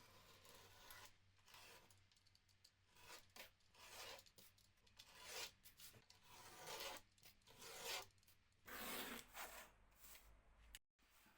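Faint repeated rubbing strokes on a surface, roughly one a second, typical of hand work on a piece being restored such as sanding or rubbing down.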